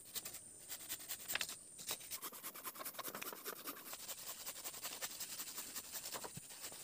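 Rapid close scratching and rubbing, many small clicks a second. Insects, crickets among them, keep up a steady high drone underneath.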